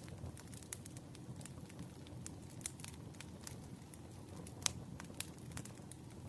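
Wood fire burning: a steady low rumble of flames with irregular sharp crackles and pops from the burning logs, one pop louder than the rest about three-quarters of the way through.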